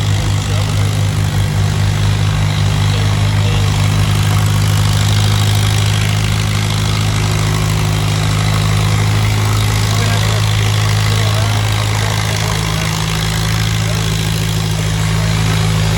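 Antique farm tractor engine running steadily with a low, even drone.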